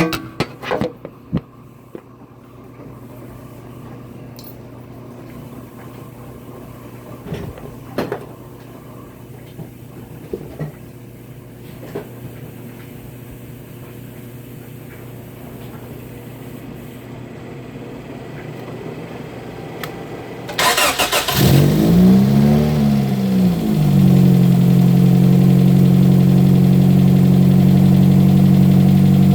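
Toyota 4A-GE 20-valve Blacktop inline-four with velocity stacks, header and HKS exhaust, heard from under the hood on a cold start. After a long stretch of low steady hum and a few scattered clicks, it cranks briefly and catches about 20 seconds in. Its revs rise and fall once, then it settles into a steady cold idle.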